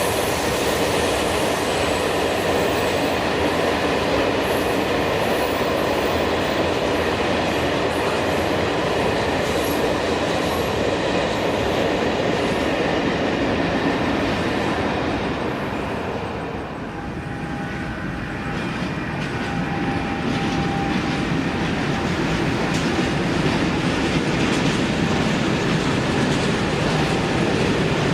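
A train passing close by, the loud rolling noise of its wheels on the rails; the noise eases briefly a little past halfway, then builds again.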